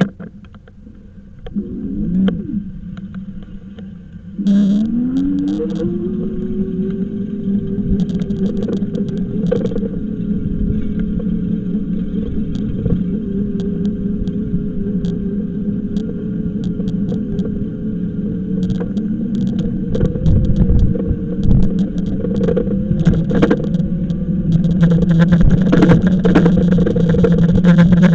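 Electric bike motor whining, rising in pitch as it picks up speed about four and a half seconds in, then holding a steady note, over low road and wind rumble with scattered clicks.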